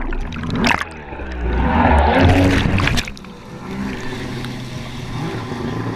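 Yamaha WaveBlaster 1200 personal watercraft's two-stroke engine running, with water rushing and splashing, loudest between about one and three seconds in and then dropping back to a steadier run.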